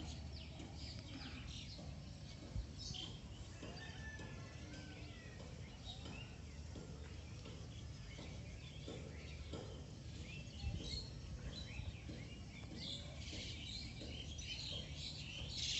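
Birds chirping at intervals, busier near the end, over a steady low background rumble, with two brief knocks.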